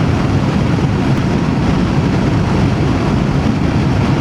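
Voge DS525X parallel-twin adventure motorcycle running steadily at road speed, its engine and road noise a constant low rumble.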